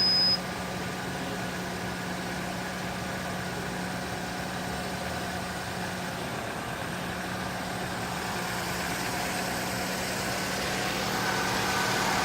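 Car engine idling steadily with the air conditioning running on max during a refrigerant recharge, a steady hum that grows a little louder over the last few seconds. A short electronic beep from the recharge machine sounds right at the start.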